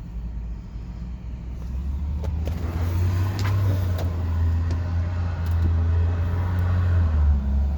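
Chevrolet Avalanche pickup's engine running, a low rumble that swells about a second and a half in and holds steady, with a few light clicks.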